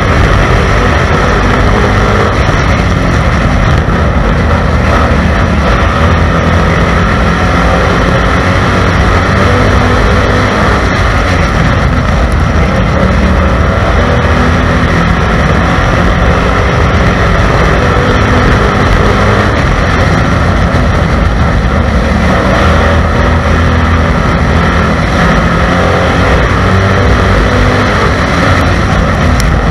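A stock car's engine running hard at racing speed, heard loud from inside the car, its note wavering a little with the throttle.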